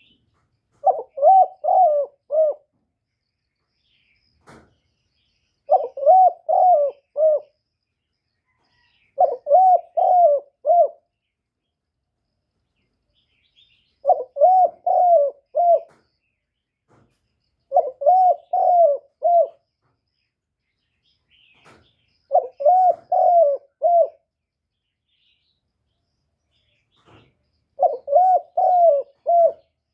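Spotted dove cooing: seven short phrases of several notes each, repeated every few seconds, a territorial call used to rouse caged decoy doves.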